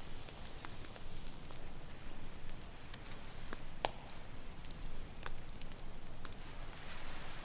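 Campfire crackling with irregular sharp pops, one louder pop near the middle, over a steady low rush; a soft swell of hiss builds near the end, as of a wave washing in.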